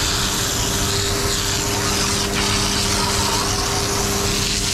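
Concrete mixer truck's diesel engine running steadily as the drum turns during washout, with a constant hiss of water spraying.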